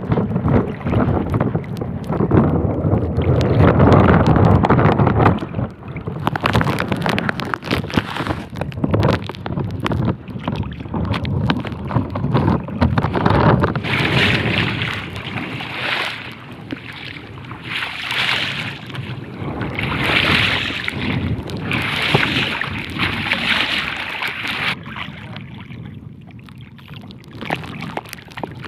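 Strong wind buffeting the microphone with a deep, uneven rumble, over water splashing; in the second half a hissing splash recurs about every two seconds.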